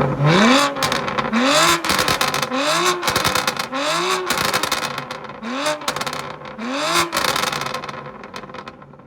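Tuned BMW M2 Competition's twin-turbo straight-six, through an active equal-length mid-pipe exhaust, revved in about six quick blips, each rising and falling in pitch, with crackles and pops on the overrun between revs; the revving dies away near the end.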